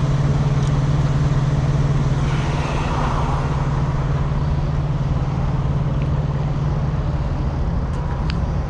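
Truck engine idling steadily with a constant low hum, and a few light clicks near the end.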